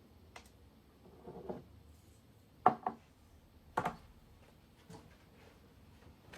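A few sharp knocks and clicks of household objects being handled and set down in a small room, the loudest a quick double knock a little under three seconds in and another single knock about a second later.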